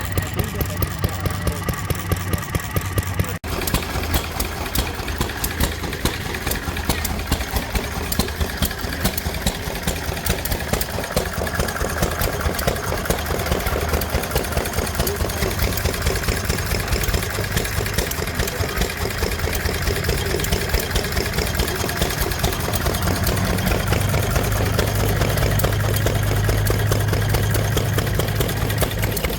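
An engine running steadily with an even, rapid beat, getting somewhat louder near the end; the sound briefly cuts out about three and a half seconds in.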